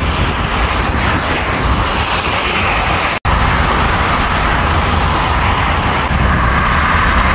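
Steady road traffic noise: a low rumble of passing vehicles with continuous tyre noise. The sound drops out for an instant about three seconds in.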